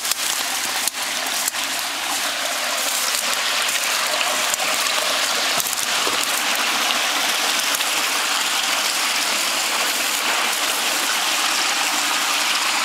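Water rushing steadily down a fish ladder, a continuous splashing hiss, with a couple of small knocks about a second in.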